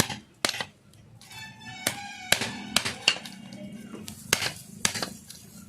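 Steel hammer tapping a motorcycle drive chain's links against a second hammer, a series of sharp, irregular metal taps, done to close up the play between worn chain links. Background music runs underneath.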